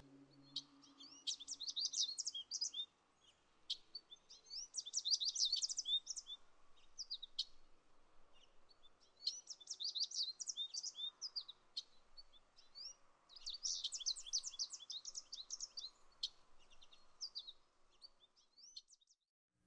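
A songbird singing in bouts of quick, high chirping notes. There are four longer bouts a few seconds apart, with scattered single notes between them.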